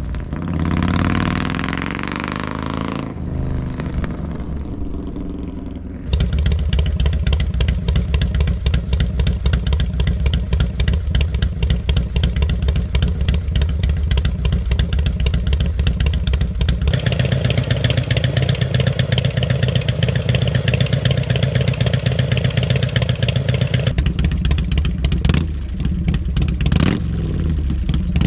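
Harley-Davidson 88-cubic-inch V-twin running through aftermarket slip-on mufflers. In the first seconds the engine note rises and falls as it is revved. About six seconds in it jumps to a loud, steady, pulsing idle, and the tone shifts twice later on, as a different bike or muffler set is heard.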